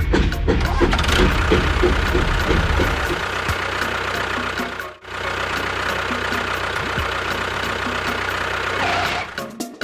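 An engine running steadily, with a regular beat ticking over it. It is heavier and louder in the low end for the first three seconds, then lighter after a short break about five seconds in.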